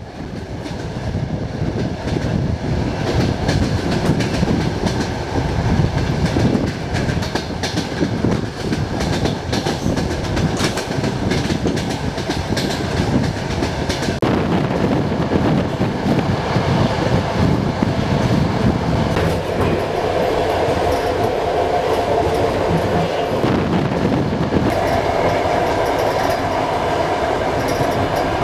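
Long-distance passenger train running at speed: a steady rumble with wheels clattering over rail joints. In the last third a steady whine joins the noise.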